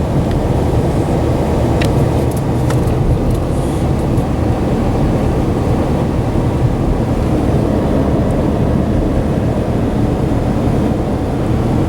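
Steady drone of tyre and engine noise inside the cab of a 2013 Dodge Ram 1500 with a Hemi V8, driving on a snow-covered road. A few faint ticks come about two seconds in.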